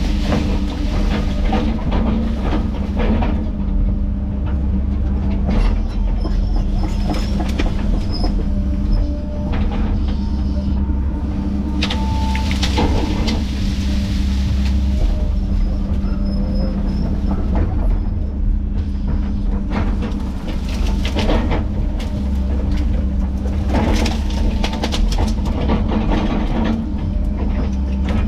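Heavy diesel land-clearing machinery running steadily under load, with irregular sharp cracks and knocks throughout.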